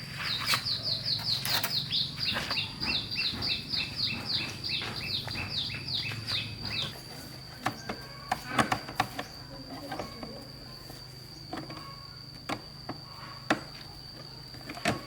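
A bird calling a rapid series of about twenty quick, downward-sliding high notes for the first seven seconds over a steady high whine. Scattered sharp knocks and clicks follow.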